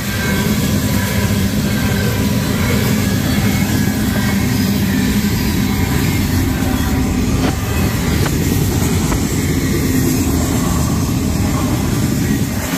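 Freight train cars rolling past at a grade crossing, tank cars and then autorack cars: a loud, steady rumble of steel wheels on rail.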